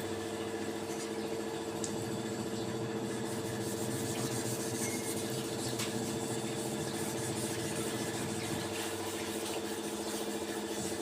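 Steady machine hum holding several constant low tones, unchanging throughout, with a few faint ticks over it.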